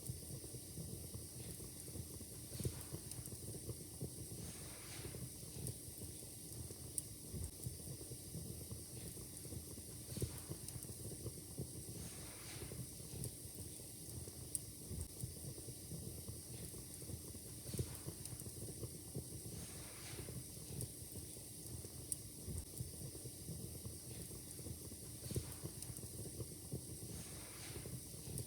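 Wood fire burning in a fireplace, crackling: irregular sharp pops and snaps, a few louder than the rest, over a steady soft hiss.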